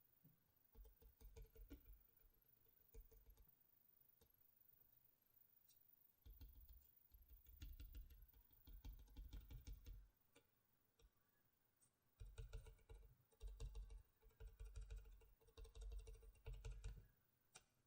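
Quiet, rapid fingernail tapping on the GoPro Hero 4 Silver packaging, in three runs of a few seconds each, each tap with a soft low thud.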